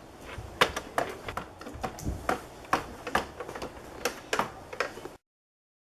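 Irregular light clicks and taps of hard plastic, about three or four a second: dolls and toy playset pieces being handled. The sound cuts off abruptly to dead silence a little after five seconds in.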